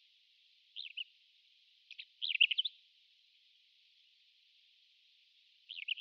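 Pied wheatear calling: three short bursts of quick up-and-down notes. The longest and loudest comes about two seconds in and the last one near the end, over a faint steady hiss.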